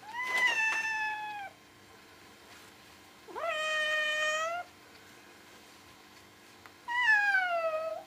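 Domestic cat meowing three times. Each meow is long and drawn out, a second or more, with a pause of a couple of seconds between calls, and the last one slides down in pitch.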